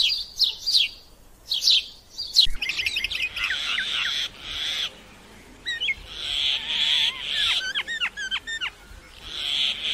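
Sparrows chirping in short, quick notes, then a colony of red-billed gulls calling from about two and a half seconds in: many harsh, overlapping calls with some wavering notes.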